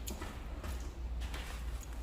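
Footsteps: a few faint steps about half a second apart over a low, steady rumble.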